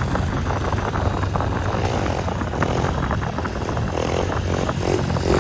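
Honda 110 pit bike's small single-cylinder four-stroke engine running under throttle while being ridden, its pitch rising as it revs up near the end.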